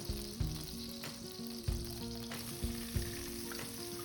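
Chopped onions sizzling in melted butter in a pan while being stirred, a steady frying hiss. Soft background music with held notes plays under it.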